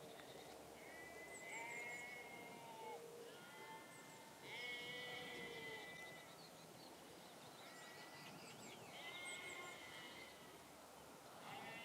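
Faint animal calls, like bleating, repeated about five times, each a second or two long, with brief high chirps over them.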